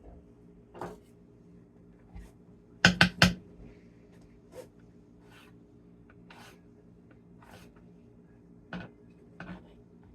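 Kitchen knife cutting through cabbage on a cutting board: scattered sharp knocks, with three quick loud ones about three seconds in, over a faint steady hum.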